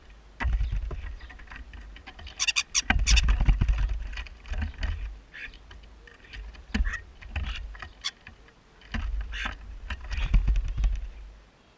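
Birds feeding at a bird table right beside the camera: a run of irregular taps and clicks from beaks pecking at the table and food, with heavier low thumps and scrabbling in several bursts, the loudest about two and a half seconds in.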